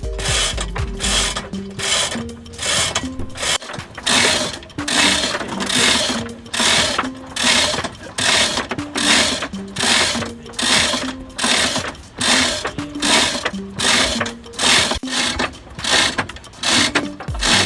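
A rhythmic rasping, ratchet-like mechanical sound that swells and fades about once a second, with faint tones beneath it that shift in pitch.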